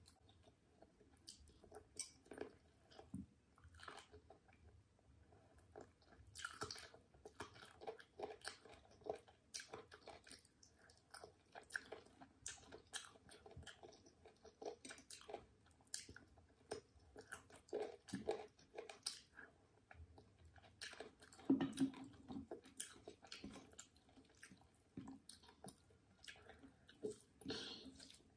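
Close-microphone eating sounds: chewing chicken and pea rice, with irregular soft clicks and wet squishes, and a few louder ones now and then.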